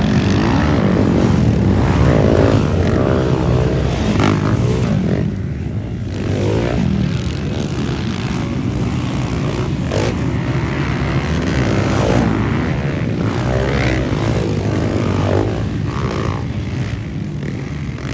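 Motocross bike engines revving up and down as they race, loud and continuous, with several engine notes overlapping.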